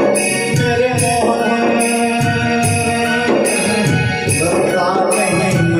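Instrumental passage of a Hindi bhajan: held melody notes over a steady rhythm of tabla and octapad percussion, with evenly repeating bright jingling hits.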